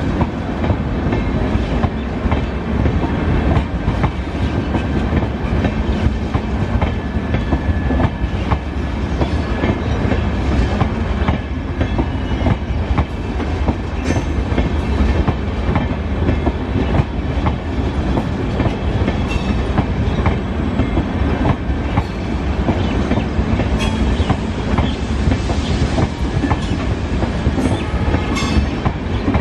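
Humsafar Express LHB passenger coaches rolling past close by, their wheels clattering steadily over the rail joints over a constant rumble.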